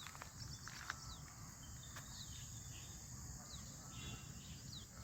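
Faint outdoor birdsong: many short, high chirps scattered throughout, over a steady high-pitched insect drone and a low background rumble.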